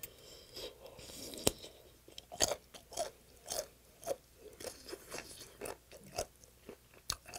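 Close-up chewing of a piece of boiled stingray with its bone still in: a steady run of crisp crunches, about two a second, as the cartilage softened by the heat of the soup is bitten through.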